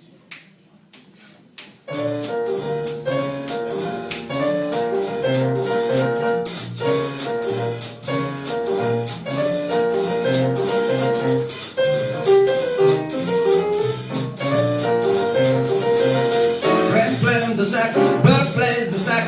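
A few finger snaps counting off, then a jazz trio comes in about two seconds in, swinging a blues: piano chords over low bass notes, with a cymbal keeping steady time. Near the end a voice joins over the trio.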